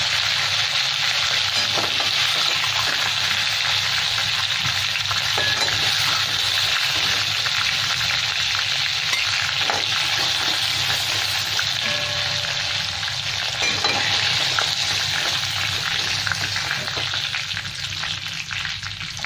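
Chicken pieces sizzling steadily in hot oil in an aluminium kadai, with a metal spatula now and then knocking against the pan as the pieces are turned and lifted out. The sizzle eases slightly near the end.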